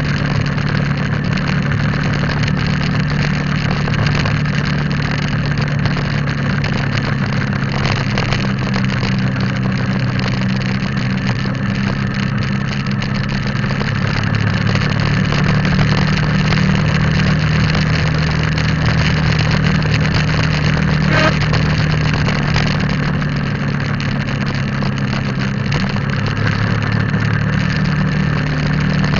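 Motorcycle engine running steadily during a ride, heard from on the bike over a haze of road and wind noise. The engine note shifts slightly in pitch a few times.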